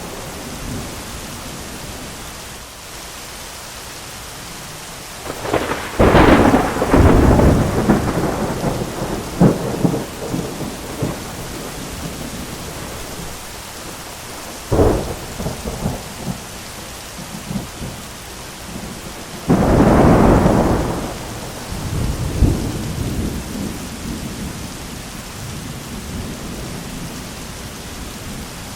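Steady heavy rain with three thunderclaps: a sharp crack about six seconds in that rumbles on for several seconds, a shorter clap about fifteen seconds in, and a loud one about twenty seconds in that rolls away into rumbling.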